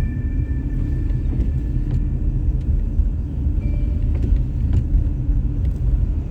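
A car driving along a snowy road: a steady low rumble of engine and tyres.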